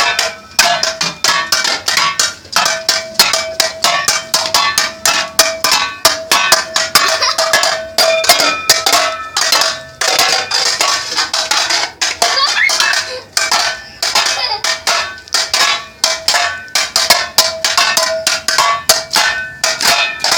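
Rapid, irregular banging on metal objects, several strikes a second, with a steady metallic ringing under the blows.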